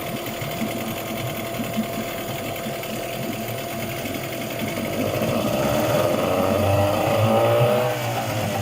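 Yamaha 8 hp outboard motor running at a steady idle, then revved about halfway through, its pitch and level rising, and eased back down near the end.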